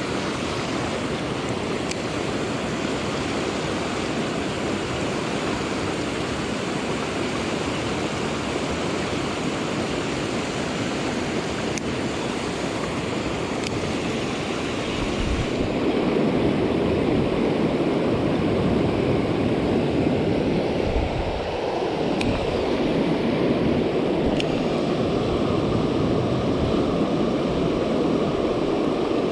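Steady rush of a fast-flowing stream swollen and muddy after rain, growing louder and deeper about halfway through.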